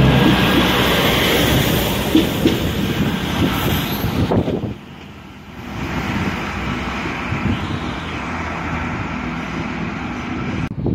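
First Great Western diesel multiple unit passing close by, its engine running and its wheels rumbling and knocking over the rail joints. About four and a half seconds in the sound cuts to a quieter, steadier rumble from another train approaching in the distance.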